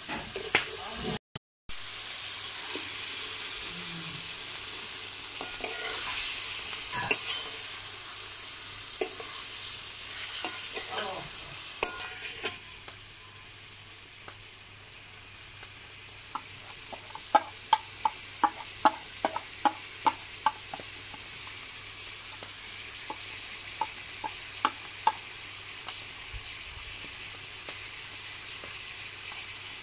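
Curry masala and chicken frying and sizzling in an aluminium kadai while a metal spatula stirs and scrapes through it. The sizzle is louder for the first dozen seconds, then drops lower. Partway through comes a run of sharp metallic clicks, about three a second, as the spatula knocks against the pan.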